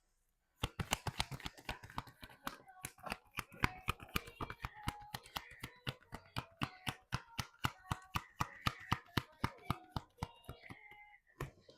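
Tarot cards being shuffled by hand: a steady run of sharp card taps, about four a second, starting just after a brief silence and stopping shortly before the end.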